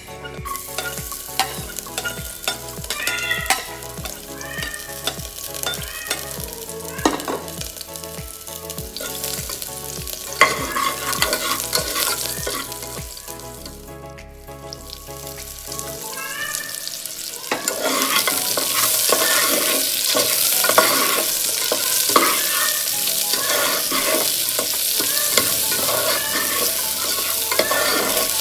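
Sliced garlic and onion frying in hot oil in a steel pressure cooker, sizzling while a steel spatula stirs and scrapes the pan. The sizzle grows much louder about two-thirds of the way through.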